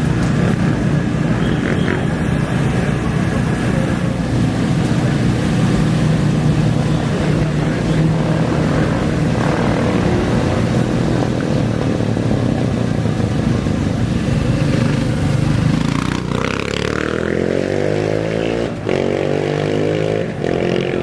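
Desert-race dirt bike and quad engines running at the start line, with one machine revving hard and accelerating away about three-quarters of the way through, its pitch climbing steeply.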